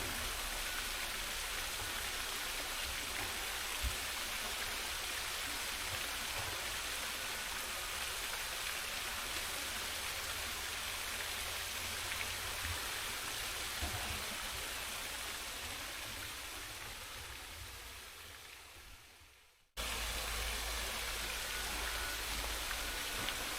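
Steady rushing outdoor noise with a low rumble. It fades away over a few seconds, then cuts back in suddenly about twenty seconds in.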